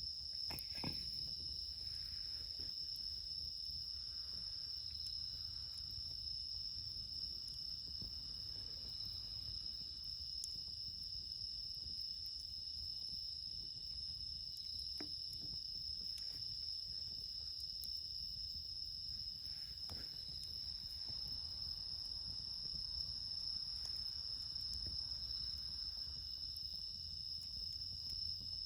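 A steady high-pitched chorus of crickets, several insects singing at once, bell crickets among them. A few faint crackles and pops from the wood fire come and go.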